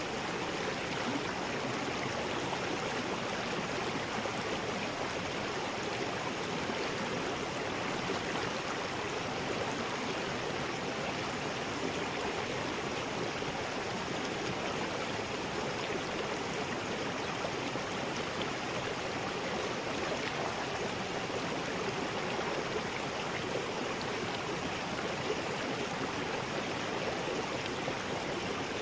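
River rapids: water rushing steadily over rocks, a constant even rush with no change.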